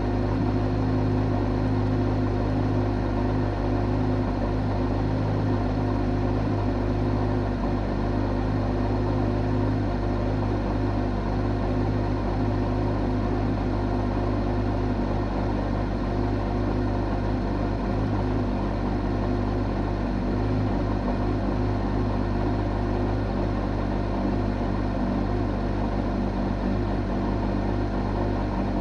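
Porsche 911 GT3 (991) flat-six idling steadily as it warms up, heard inside the closed cabin. The low exhaust drone comes from an aftermarket RSS centre section with the exhaust valves disconnected and held open.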